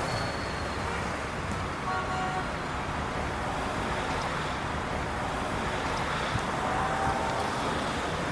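Steady road traffic noise, with a brief faint horn toot about two seconds in.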